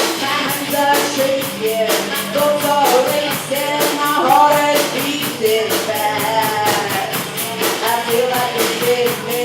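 Live rock band playing: electric guitar and drums with a fast, even beat, a melodic line running over the top.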